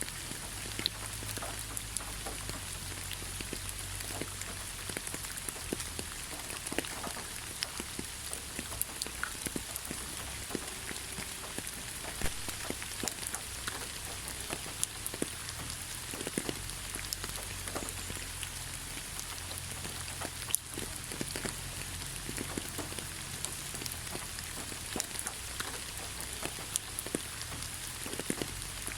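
Steady rain falling on leaves: an even hiss with many separate drop taps scattered throughout.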